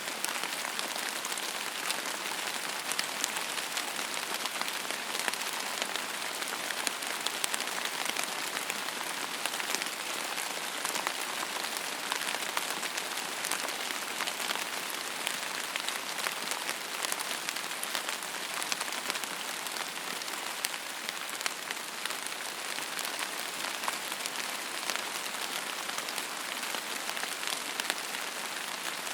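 Steady rain falling on a surface: a constant hiss with many small drop ticks scattered through it.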